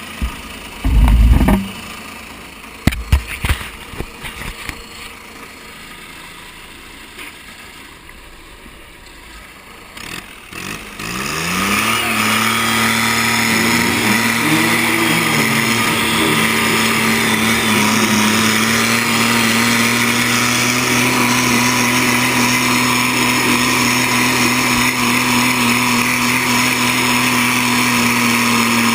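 Diesel garden tractor engine, quiet at first with a few knocks, then revving up about eleven seconds in and running at steady high revs for the rest, as on a pull.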